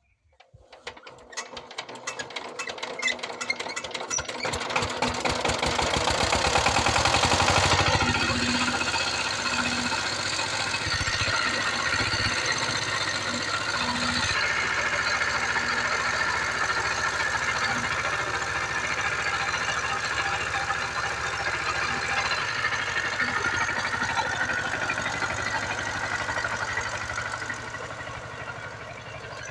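Power tiller's diesel engine starting up: its firing strokes come quicker and louder over the first several seconds, loudest about seven seconds in. Then it eases and settles into steady running.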